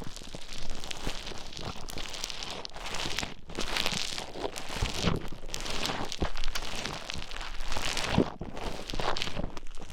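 Play Foam bead dough being kneaded and mixed close to the microphone: continuous dense crackling with many small clicks, swelling and fading every second or so.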